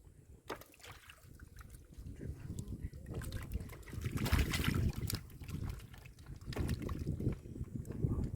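Muddy water sloshing and trickling as hands dig and scoop through a shallow mud pool while hand fishing. It is irregular, with a louder stretch of splashing about four to five seconds in.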